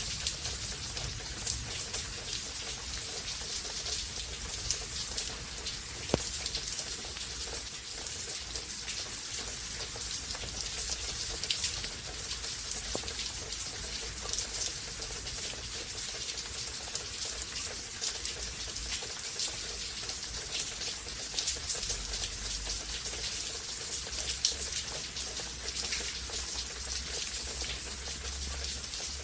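Steady rain storm: an even hiss of rainfall with many close drops tapping, over a low rumble. One sharp click about six seconds in.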